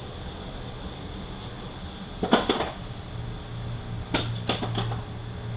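Metal transmission parts knocking and clinking as they are handled: a double knock a little over two seconds in, then a quick run of three or four clinks about four seconds in. A low steady hum runs underneath.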